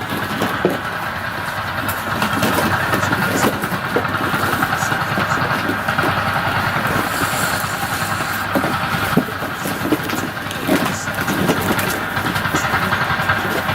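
Recorded vehicle engine noise played back through a speaker as a puppy-habituation sound, a steady mechanical drone with scattered clicks and knocks over it.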